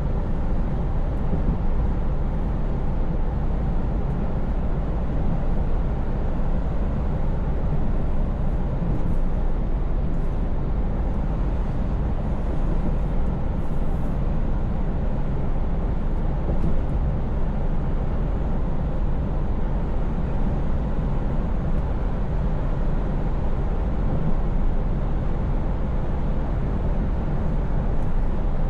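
Scania V8 truck cruising at a steady speed: an even, low engine rumble with tyre and road noise over it.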